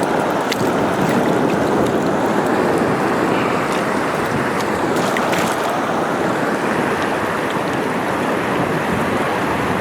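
Steady rush of a river's flowing water, with a few faint ticks over it.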